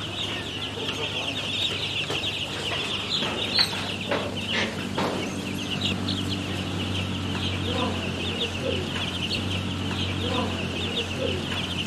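A large flock of chickens in a poultry house, a dense, unbroken chorus of many overlapping high calls and clucks, with a steady low hum underneath.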